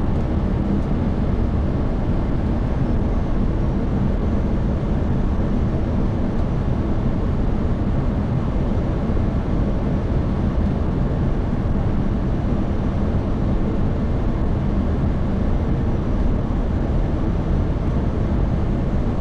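Steady cockpit noise of a Boeing 737 on final approach: an even rush of airflow and engine noise, with landing gear and flaps extended, holding constant without any change.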